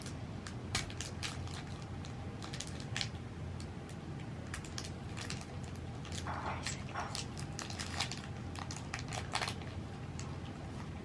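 Close-miked chewing and crunching of food: a run of short, sharp crunches and clicks at irregular intervals over a steady low hum.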